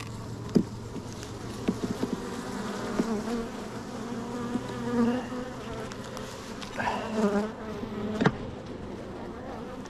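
Honeybees buzzing close around an open hive, the pitch of their flight wavering and swelling as they pass near. A few sharp knocks cut through, one about half a second in and one near the end.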